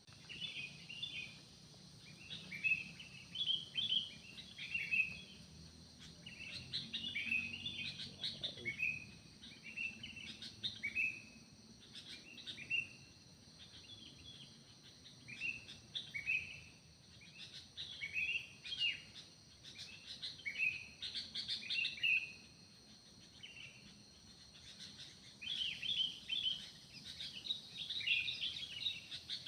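Forest birds calling in short, rapid chirping phrases, repeated every second or so throughout, over a steady high-pitched insect drone.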